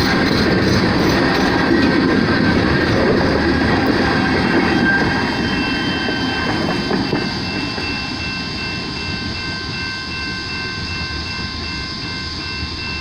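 Loaded freight cars of a rock train rolling past, a dense rumble of wheels on rail with clickety-clack, with thin steady high-pitched wheel squeal. It grows quieter after about five seconds.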